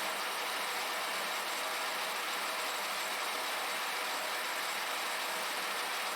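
Steady, even rushing noise from a running machine, with no rhythm or change in level.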